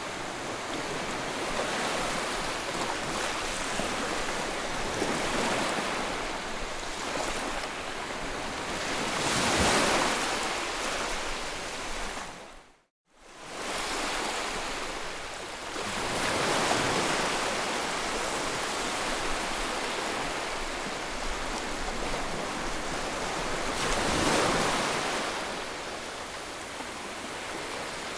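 Ocean surf washing in steady, swelling to a louder wave twice. About halfway through, the sound fades out to a moment of silence and then fades back in.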